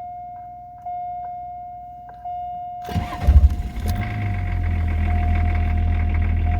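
The BMW-built 2.4-litre straight-six turbo diesel is cranked by the starter about three seconds in, catches within about a second and settles into a steady diesel idle. A steady high electronic warning tone sounds from the car throughout, swelling twice before the cranking.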